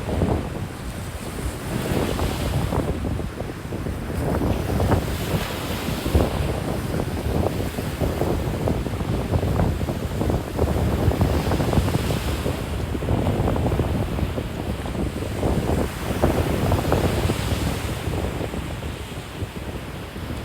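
Ocean surf washing and breaking on the beach in irregular surges, with wind rumbling and buffeting on the microphone.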